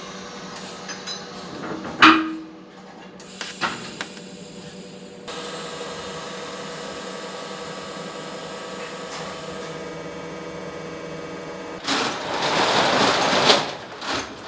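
Metalworking in an exhaust fabrication shop: a sharp metal clank about two seconds in and a few light clicks, then a steady electrical hum, and loud rough noise near the end.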